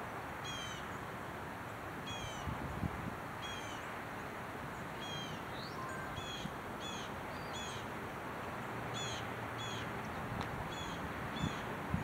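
A bird calling repeatedly in short, high, downward-slurred notes. At first they come about one every second and a half, then from about halfway through they come quicker, roughly two a second. A steady low background hiss runs underneath.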